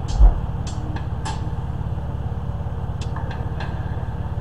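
Chevy Uplander minivan's V6 engine idling steadily, with one deep thump just after the start and a few light clicks.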